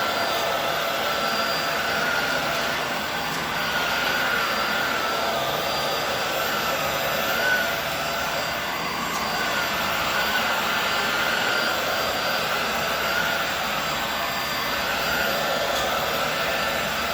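Hoover Air Steerable upright vacuum cleaner running on a rug, a steady rushing motor sound with a high whine that dips and rises slightly in pitch as the load changes.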